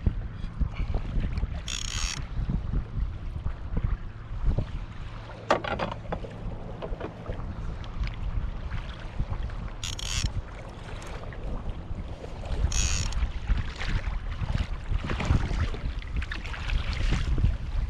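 Wind buffeting the microphone over water sloshing around a fishing kayak, with a few short splashy hisses, about four in all.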